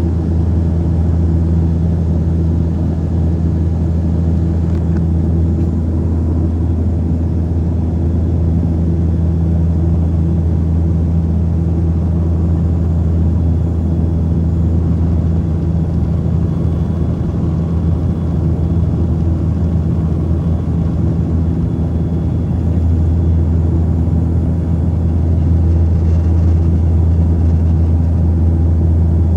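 Saab 340 turboprop engines and propellers running, a steady low drone with a strong propeller hum. It grows a little louder about two thirds of the way through.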